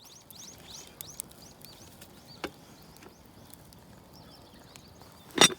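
A small bird chirping a quick run of short, high, arched notes, strongest in the first second and fainter after. A few sharp clicks follow, and a loud knock comes near the end.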